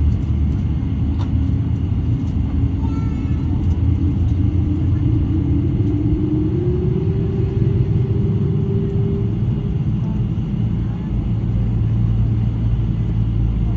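Boeing 777-300's Rolls-Royce Trent 800 engines heard from inside the cabin: a loud, steady low rumble, with an engine tone that rises in pitch over several seconds and fades out about ten seconds in.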